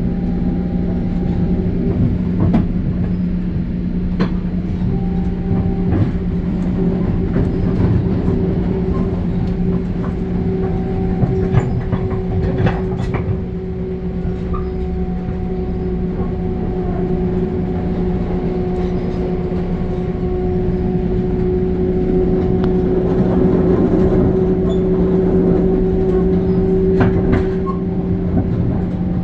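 Long Island Rail Road train running along the track: a steady hum with irregular clicks of the wheels over rail joints, holding at an even level throughout.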